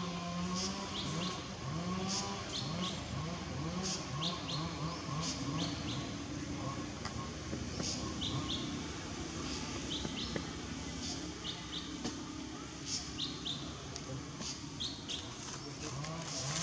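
Small birds chirping in short, repeated high notes throughout, over a steady outdoor background. Underneath is a low hum that rises in pitch over and over for the first several seconds.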